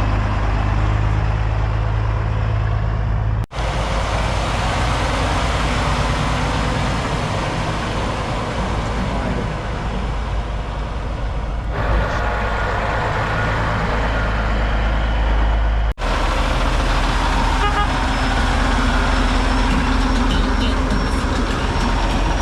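Heavy diesel semi-truck engines running loud and steady as show trucks roll. The sound breaks off sharply twice, about three and a half seconds in and again near sixteen seconds, where the footage is cut.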